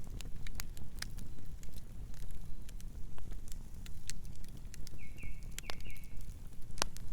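Wood campfire crackling: frequent sharp pops and snaps at irregular intervals over a steady low rumble of the flames. A short run of high chirps comes about five seconds in.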